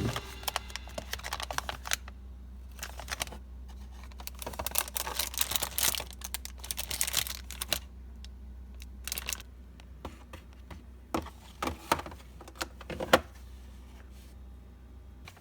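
Plastic storage containers and food packaging being handled and set in place: an irregular run of light clicks, taps and crinkles over a faint low hum.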